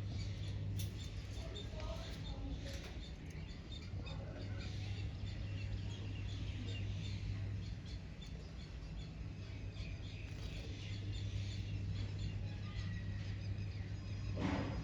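Lovebirds chirping in short, scattered high calls over a steady low hum, with one brief sharper noise near the end.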